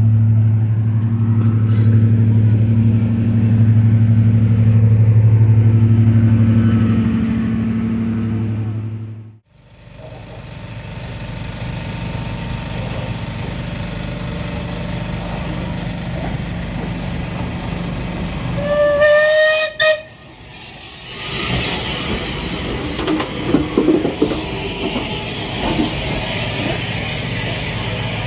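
A heritage railway train: first a loud, steady low drone that cuts off sharply, then steady rumbling, then a short, slightly rising train whistle about two-thirds of the way in. After a brief break, the train rattles and clatters along the rails with scattered clicks.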